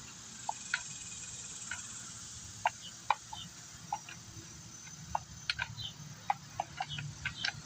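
Irregular light metallic clicks and taps as the bar nuts on an Echo CS-440 chainsaw are tightened with the chain held up, tool and chain links knocking against the bar.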